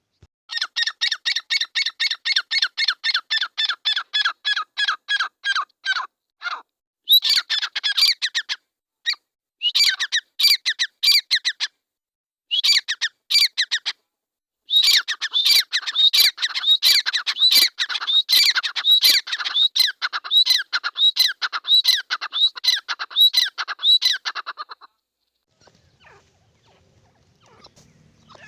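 A pair of grey francolins (teetar) giving their loud, rapidly repeated calls at about four notes a second, in long runs broken by short pauses. The calling stops near the end.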